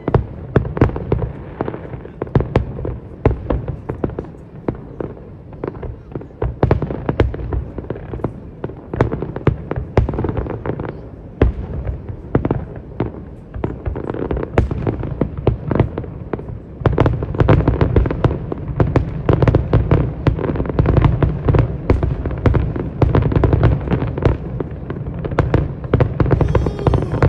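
Fireworks display: a rapid, continuous series of aerial shell bangs and crackles, growing denser and louder about two-thirds of the way through.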